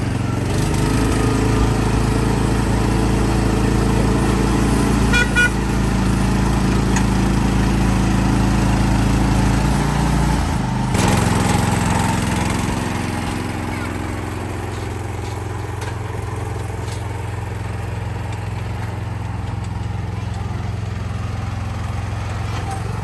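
Small vehicle engine running steadily under way. About eleven seconds in there is a clunk, after which the engine runs quieter.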